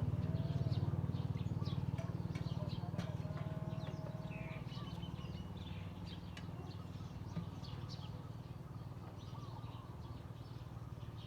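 Birds chirping and calling over and over, over a steady low rumble that slowly fades.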